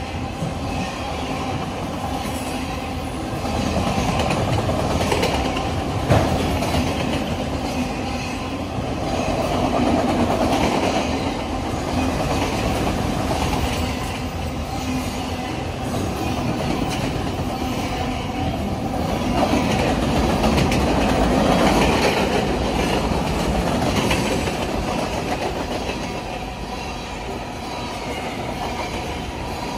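Freight train of autorack cars and a tank car rolling past close by: a steady rumble and rattle of steel wheels on rail, with repeated wheel clicks, swelling and fading as the cars go by.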